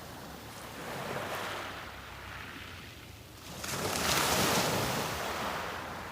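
Sea waves breaking on a beach: a small wash about a second in, then a bigger wave rushes in and breaks just past halfway, its hiss swelling and slowly falling away.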